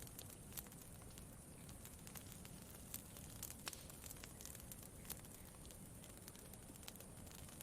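Campfire crackling: irregular sharp pops and snaps, a few of them louder, over a soft steady rumble.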